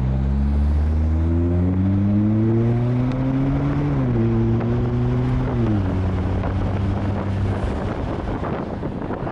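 2022 Mazda3's 2.5-litre turbocharged four-cylinder, breathing through an aftermarket CorkSport intake and exhaust, accelerating hard. The engine note climbs for about four seconds and drops with an upshift, then rises briefly and falls away again near six seconds as the revs come down. It then runs steadily under road and wind noise.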